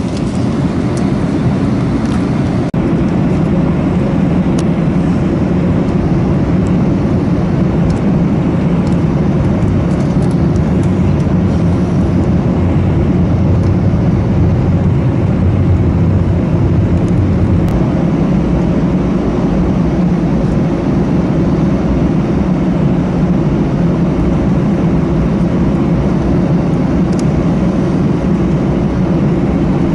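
Steady engine and airflow rumble of an Airbus A318 heard from inside the passenger cabin, with the jet engines running. It holds level and low-pitched throughout, with a slightly stronger deep hum in the middle.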